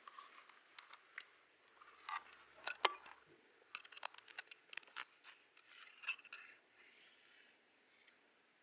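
Light, irregular clicks, taps and short scratches from tools being worked over hair and skin during an ASMR massage, thinning out after about six seconds.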